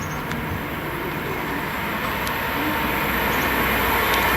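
A train approaching on the line, its rumble and rail noise growing steadily louder.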